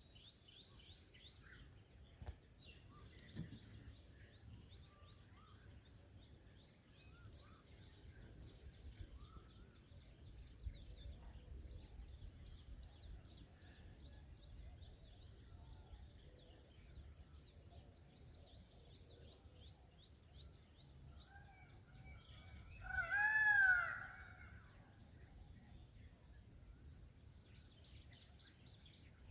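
A peacock gives one loud call, about a second long, that rises and falls in pitch, well into the stretch. Under it, a high insect buzz pulses steadily and small birds chirp faintly.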